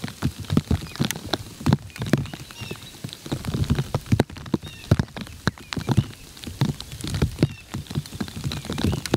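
An irregular patter of short taps and dull knocks, with a few faint, short, high chirps among them.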